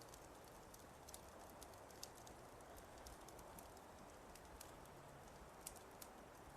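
Faint crackling of a wood fire: irregular sharp pops and snaps, several a second, over a low steady hiss.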